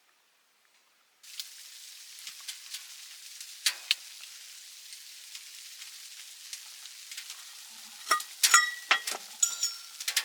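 Food sizzling in a hot pan, starting suddenly about a second in, with a couple of clicks and then, near the end, metal clinks of a utensil stirring against the pan.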